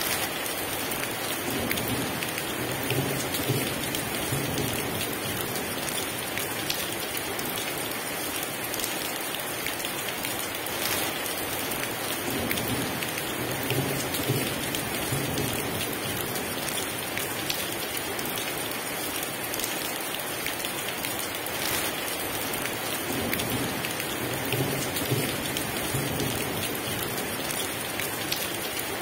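Heavy rain pouring steadily, with low rolls of thunder swelling up three times.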